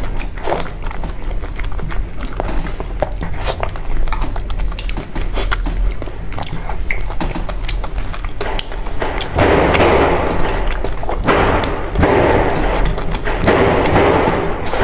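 Close-up eating sounds of a person chewing soft, sticky dessert balls, with many small wet mouth clicks. The chewing grows louder and denser about nine seconds in.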